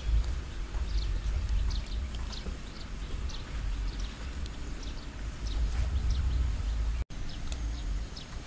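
Small birds chirping, short falling notes repeated a few times a second, over a steady low rumble.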